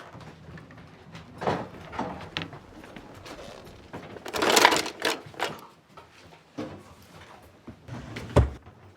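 Knocks and rustling handling noises, with a louder scraping noise about four seconds in and a single heavy thud near the end.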